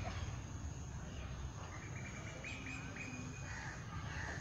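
A bird chirping: a quick run of short repeated notes at one pitch, about four a second, starting a second and a half in, then one more call near the end, over faint outdoor background noise.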